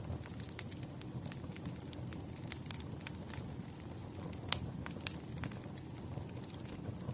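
Burning firewood crackling: a steady low rumble of flames with frequent sharp pops and snaps, the loudest pop about four and a half seconds in.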